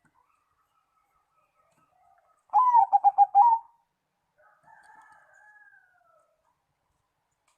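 Zebra dove (perkutut) cooing: one loud phrase of quick, staccato coo notes about two and a half seconds in, followed by fainter gliding calls.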